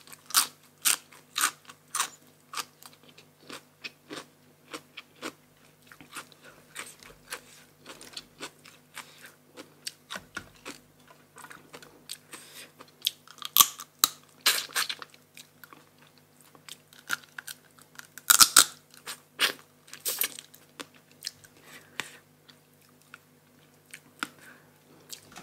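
Close-miked chewing of crunchy food, crisp crunches about two a second at first, then sparser, with a few louder bites in the second half.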